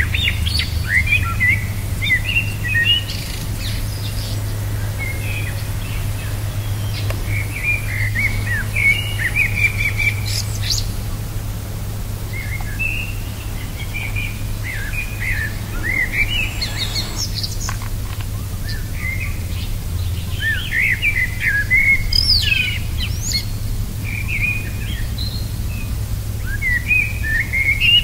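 Wild birds singing: short phrases of quick chirps and trills, repeated with brief pauses, over a steady low hum.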